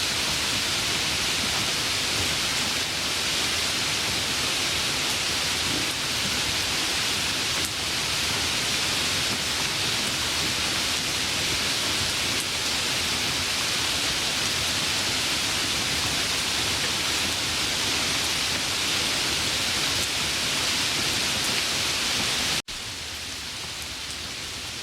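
Heavy rain falling as a steady, dense hiss. Near the end it cuts out for an instant and comes back quieter.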